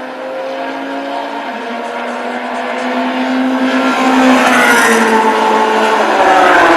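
Several racing engines running at a circuit, their pitch shifting up and down as they rev, getting louder about halfway through as they come closer.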